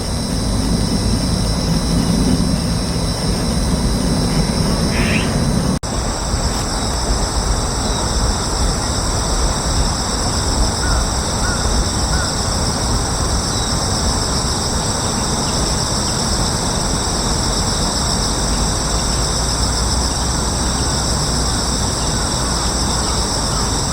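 Steady outdoor ambience: a continuous high buzzing, as of insects, over a low rumble like distant traffic, with a brief faint chirp about five seconds in. The sound changes abruptly about six seconds in, like an edit cut, and carries on the same way.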